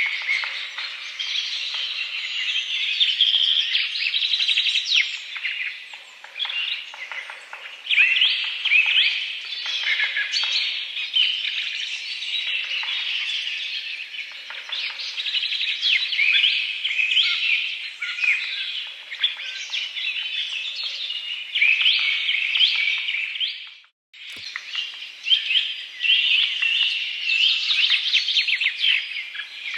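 Dense chorus of many small birds chirping and twittering over one another without a break, cutting out for an instant with a click about four-fifths of the way through.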